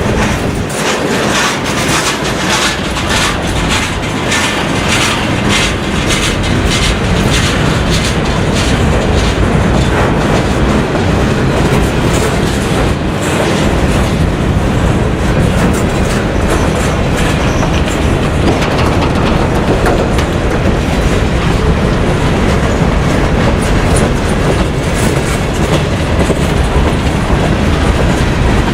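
Freight train cars rolling past, with a steady rumble and rhythmic clicking of wheels over the rail joints. The clicking is densest in the first half.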